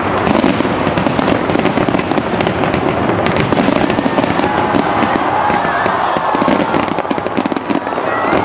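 Fireworks display going off in a dense, unbroken barrage of bursts and crackles.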